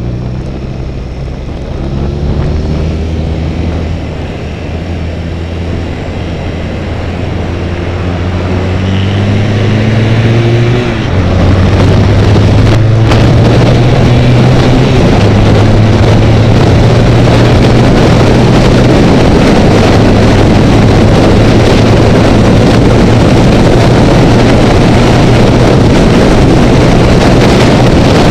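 Honda Rebel motorcycle engine pulling up through the revs, rising in pitch over about the first eleven seconds. Then the sound jumps louder into a steady rush of wind noise over the engine's even drone at freeway speed.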